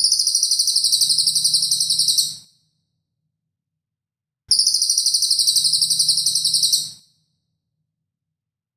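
A songbird's sharp, buzzing rapid trill, a rasping high-pitched 'mbeset' call, given twice for about two seconds each with silence between. The bursts repeat identically as an edited training loop.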